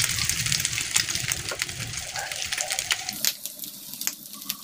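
Egg-dipped bread slices frying in oil in a nonstick pan: a steady sizzle full of small crackling pops, softening a little near the end.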